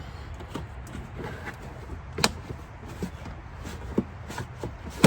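Scattered clicks and knocks of hands working the car's plastic trim behind the rear wheel, sharpest about two seconds in and again near four seconds, over a steady low rumble.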